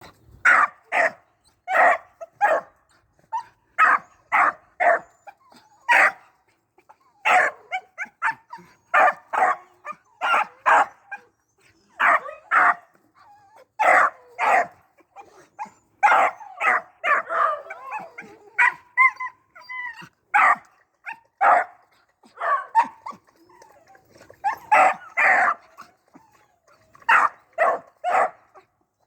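A puppy in training for rabbit hunting barks again and again in short, sharp barks, often two or three in quick succession. About two-thirds of the way through come a few fainter, drawn-out, wavering yips.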